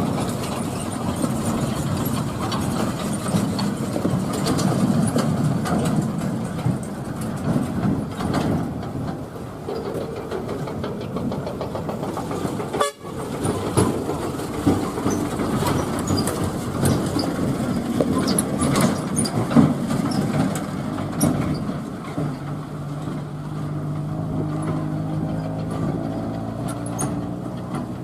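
Heavy truck engines running, with rattles and knocks from the trucks on a rough road. There is a sudden break about 13 seconds in, and near the end a steady engine hum with a clear pitch.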